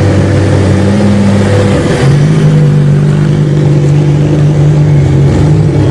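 Ferrari F50's V12 engine running at a steady low rev. About two seconds in, its note steps up to a higher steady pitch as the car pulls away slowly.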